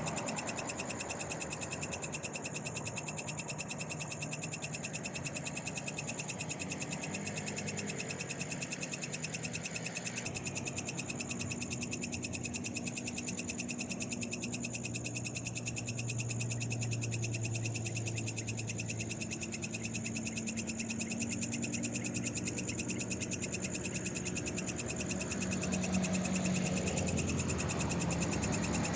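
Night chorus of frogs and insects calling continuously, a dense rapid pulsing with steady high-pitched trills. A low hum swells and fades in the middle.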